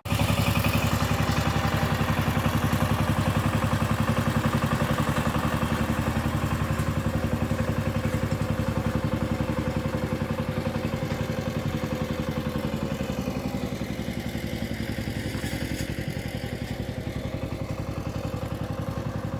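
Walking tractor engine running steadily with a fast, even chugging pulse, easing off slightly in loudness in the second half.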